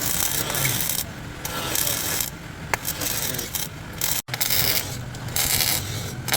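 Repeated back-and-forth rasping strokes of an abrasive hand tool on car bodywork, about one to two strokes a second. The sound drops out briefly just after four seconds in.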